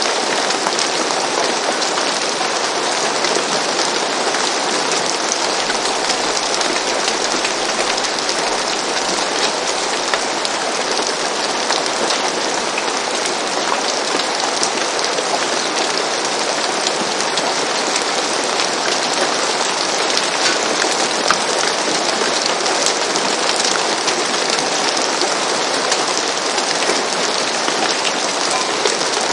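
Steady rain falling on a roof, an even hiss of rain with the patter of individual drops.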